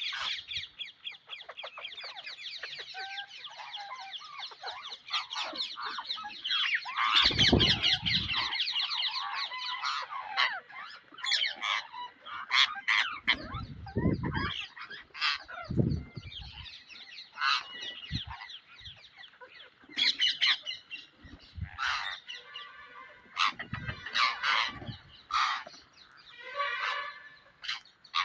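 Psittacula parakeets calling: a fast stream of high chattering calls for the first ten seconds or so, then a run of separate sharp squawks. A few low thumps come through, the loudest about seven seconds in.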